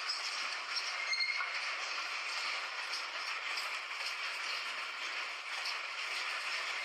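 Train running on the rails: a steady rushing noise with a short, faint high squeal about a second in.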